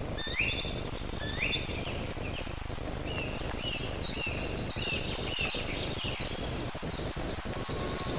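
Birds singing over a steady background hiss: a few short rising chirps first, then from about three seconds in a run of quick repeated two-part calls, about three a second.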